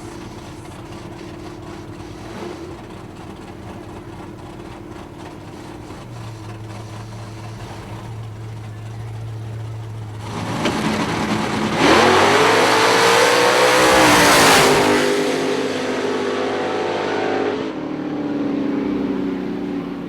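A Chevrolet Camaro and a nitrous-boosted Chevrolet S-10 pickup drag racing. The engines run steadily at first; about halfway through they launch at full throttle, the engine pitch climbing. The sound peaks a couple of seconds later, then the engine note falls away as they pull off down the strip.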